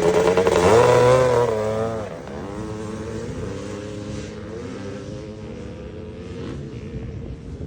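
Vintage two-stroke dirt bike engine revving, its note wavering up and down. It is loud for about two seconds, then quieter for the rest, the pitch still rising and falling with the throttle.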